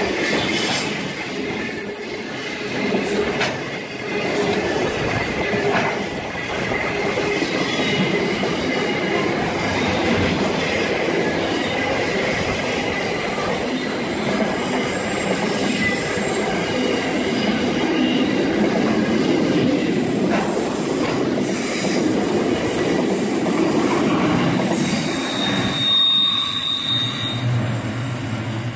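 Freight train rolling steadily through the station, its wagons' wheels running on the rails with a continuous loud rumble and rattle.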